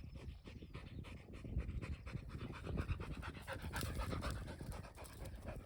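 A dog panting rapidly and rhythmically, close by.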